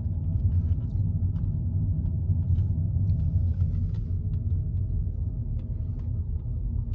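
Steady low rumble of a car driving, engine and road noise with no change in pace.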